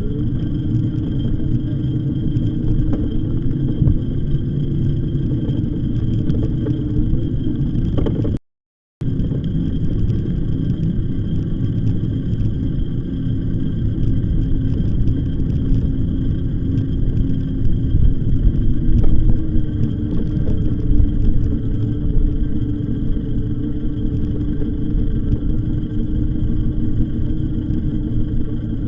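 Steady low rumble of wind and riding noise from an e-bike on the move, with a faint steady hum over it. The sound cuts out completely for about half a second roughly a third of the way in, then carries on.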